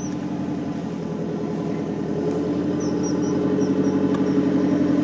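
Off-road jeep's engine running steadily under load, gradually getting louder, as the vehicle pushes into soft, slick clay where it bogs down.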